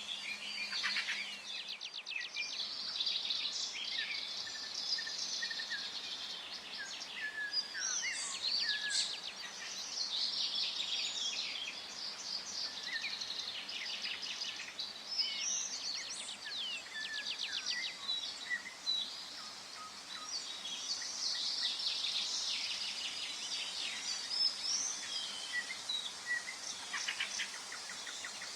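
Forest ambience: several songbirds chirping and singing over a soft, steady background hiss, with a rapid trill now and then.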